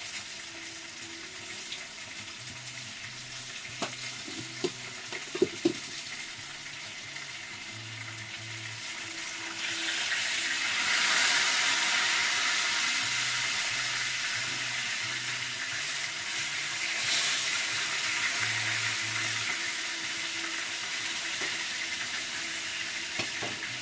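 Food frying in hot oil: a steady sizzle that grows louder about ten seconds in and stays strong, with a few sharp utensil knocks around four to six seconds in.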